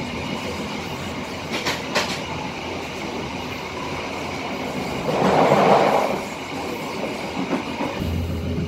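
Passenger train running along the track with a steady rumble. Two sharp clicks come about two seconds in, and a louder rushing swell lasts about a second around the middle.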